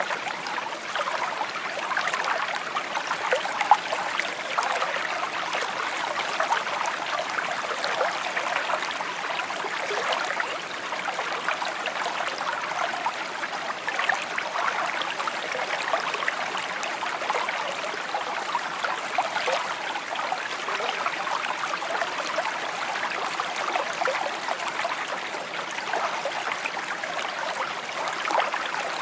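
A small stream trickling and babbling over stones, a steady burble.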